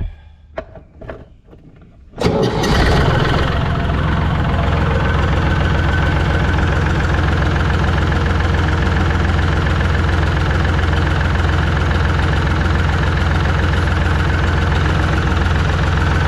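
An engine starts about two seconds in after a few short clicks, then runs steadily at idle.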